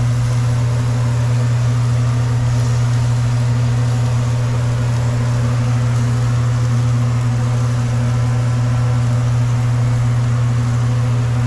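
A steady low mechanical hum, unchanging in pitch and level.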